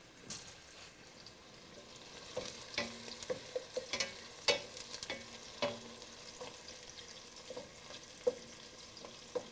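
Chopped onions and garlic frying gently in olive oil in a stainless steel pot, a faint sizzle under a wooden spatula stirring and knocking against the pot. The knocks and scrapes come thickest in the middle, then thin out.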